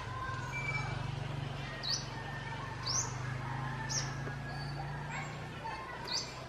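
A small bird giving four short, sharp, rising chirps, spaced about a second apart, over a steady low hum.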